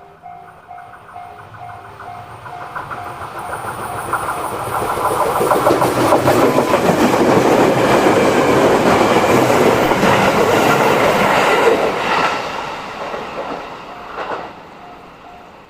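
A JR Nara Line train passing over a level crossing: the rumble and rapid clacking of wheels over the rail joints build over a few seconds, are loudest in the middle, then fade away. The crossing's repeating warning bell sounds at the start and comes through again near the end.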